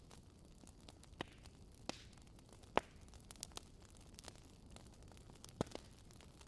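Campfire crackling: irregular sharp pops and snaps over a low steady hiss, the loudest pop just under three seconds in and another strong one at about five and a half seconds.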